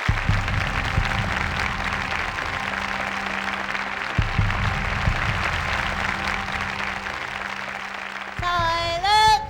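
Audience applauding, slowly dying away, with music and a low bass line coming in underneath. A voice comes in briefly near the end.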